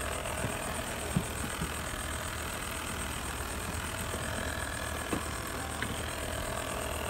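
Robot vacuums running, a steady motor and brush whir, with a few light clicks.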